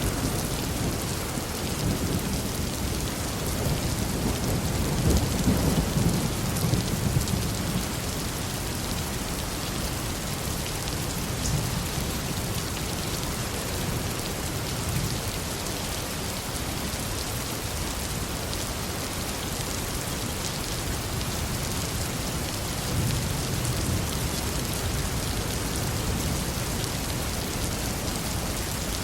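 Heavy rain falling steadily, with low rolling thunder that swells in the first several seconds and rumbles again past the middle.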